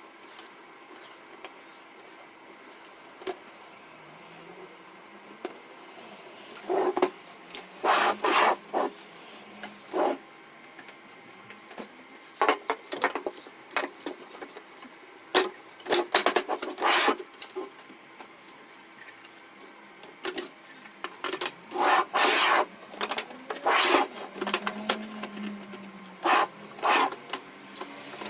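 Hands working on the plastic and metal parts of a Canon MF4018 laser printer's fuser: irregular clicks, knocks and scraping rubs, coming in bunches with short pauses between.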